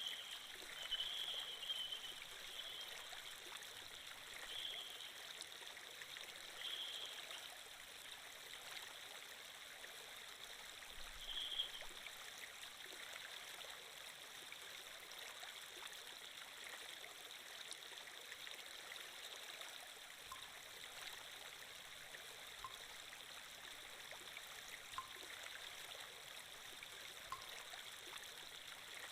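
Faint, steady running water of a stream sound effect, with a few brief louder spots in the first dozen seconds.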